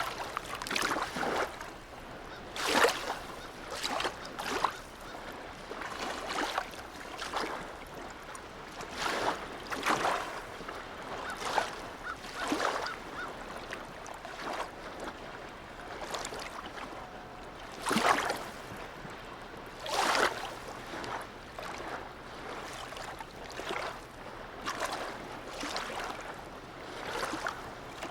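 Small sea waves lapping and splashing in a harbour, with short irregular splashes every one to two seconds, the loudest near the start and twice about two-thirds of the way through, over a steady faint wash of water.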